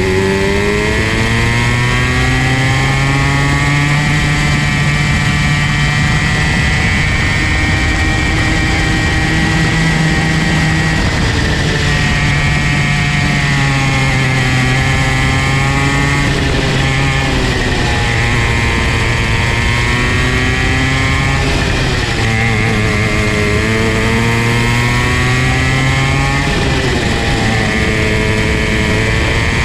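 Comer C50 50cc two-stroke go-kart engine running hard, its pitch dropping as it eases off and climbing back as it revs up again, several times over.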